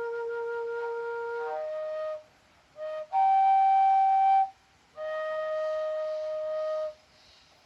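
Flute playing a slow phrase of a few long held notes: a low note, then a short pause, a louder higher note held about a second and a half, and a middle note held for about two seconds. It stops shortly before the end.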